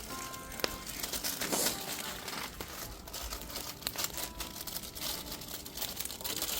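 Wood fire crackling, with irregular sharp pops and snaps from burning firewood.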